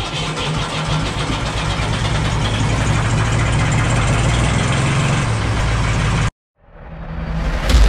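Ford 2000 tractor's glow-plug diesel engine running steadily just after a cold start, growing a little louder over the first few seconds, then cut off abruptly about six seconds in. Music swells in near the end.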